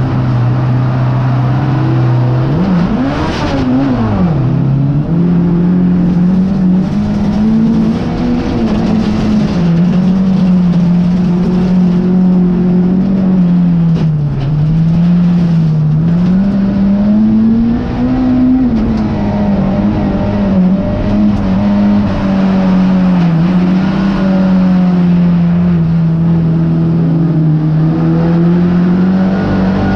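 Folk race car's engine heard from inside its stripped, roll-caged cabin, running hard under racing load. Its pitch keeps rising and falling as the driver accelerates and lifts, with a sharp drop and swoop back up about three seconds in.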